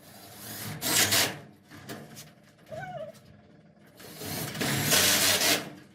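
Power drill running in two bursts, the first about a second in and a longer one that builds up near the end, as it works on the garage door's metal skin.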